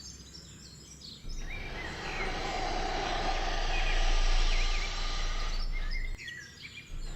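Small birds chirping in short gliding calls over a steady noisy hum. The hum starts abruptly about a second in and cuts out briefly near the end.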